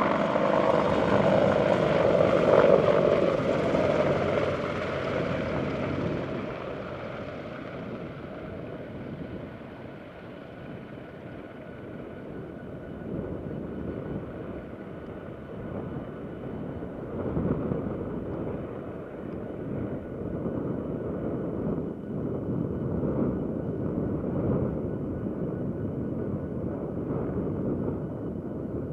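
Boeing AH-64 Apache attack helicopter's rotor and twin turbine engines, loud at first and then fading as it flies off. The higher whine dies away after a few seconds, leaving a distant, wavering rumble.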